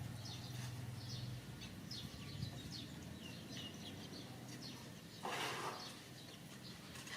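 Birds chirping in the background: many short, high chirps throughout. There is a low hum in the first second or so and a brief rustle about five seconds in.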